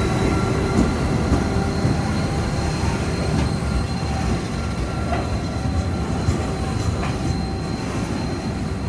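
Two 81 class diesel-electric locomotives, with two-stroke EMD V16 engines, pass close by with a heavy steady rumble of engines and wheels on rail. A thin steady squeal from the wheels runs over it. Near the end, loaded hopper wagons roll past behind them.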